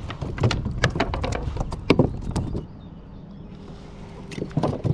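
A run of sharp knocks and clatter from a fish and tackle being handled in a kayak, with a quieter spell about three seconds in.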